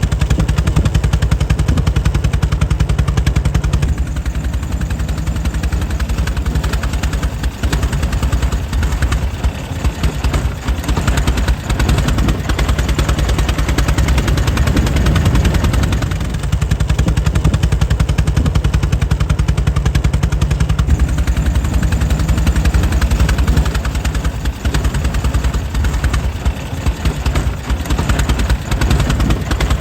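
Air-cooled 1904 Mitchell engine running steadily, a rapid, even stream of firing beats. The level eases a little twice.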